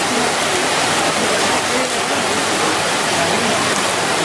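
Heavy rain falling steadily, a dense even hiss, with faint voices of the crowd behind it.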